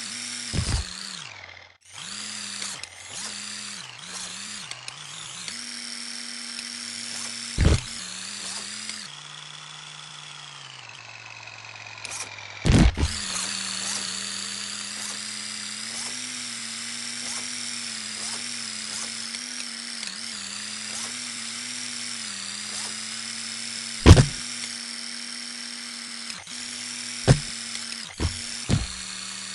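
Electric RC monster truck motor whining as the throttle is worked, its pitch rising and dipping. Sharp knocks come at intervals, the loudest about two thirds of the way through, with a quick cluster near the end.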